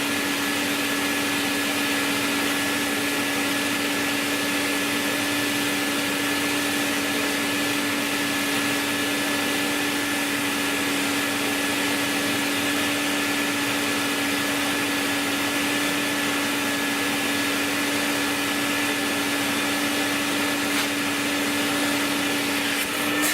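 Orbital sander with dust extraction running steadily with a constant motor hum and hiss, sanding down a car body panel to prepare it for primer.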